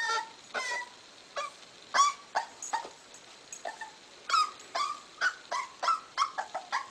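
Young puppy whimpering and yelping in a string of short, high cries that each drop in pitch, about fifteen of them, coming faster toward the end.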